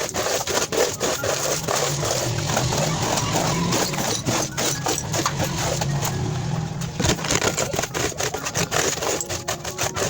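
A broom sweeping the ground in quick, irregular scraping strokes, with a low steady hum underneath for a few seconds in the middle.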